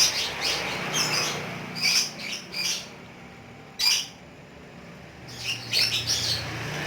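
Lovebird calling in short, sharp, high-pitched chirps and squawks, in clusters at the start and again near the end, with a lull in between.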